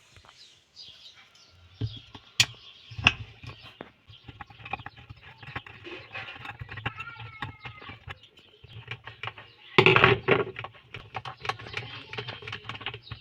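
Scattered clicks and knocks of hand work on a washing machine's pulsator, with a louder clatter about ten seconds in.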